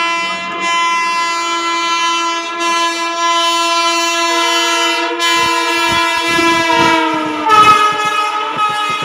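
Indian Railways electric locomotive's horn sounding one long, loud blast as a through train runs through the station, dropping in pitch about seven and a half seconds in. From about five seconds in, the wheels clatter rhythmically over the rail joints.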